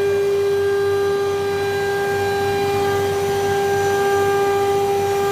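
COSMEC FOX CNC nesting centre running with a steady, unchanging whine over a low hum.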